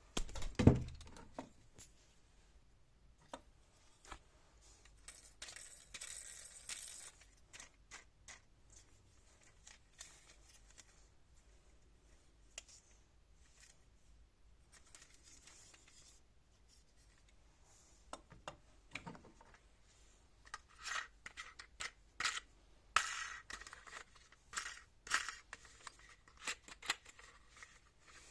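Plastic toy car being handled: a sharp thump under a second in, then scattered clicks, scrapes and rustling, thickest in the last third.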